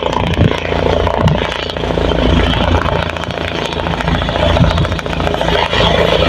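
Helicopter running close by: a loud, steady turbine and rotor sound with a rapid, even beating of the blades.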